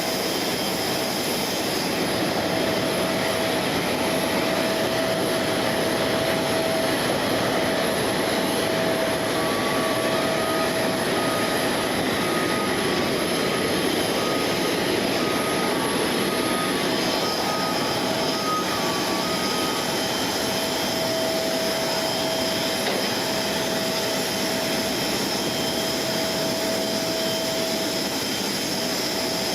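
Steady jet-turbine noise: an even rush with high steady whine tones held throughout. A faint two-pitch beeping alternates for about ten seconds in the middle.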